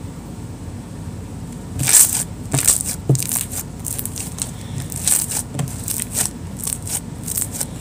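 Clear glue slime being worked by hand, giving a string of irregular crackling pops from about two seconds in.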